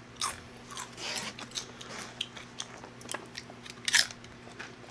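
Close-up crunching of tortilla chips being bitten and chewed, in irregular crisp crunches, with the loudest crunch about four seconds in.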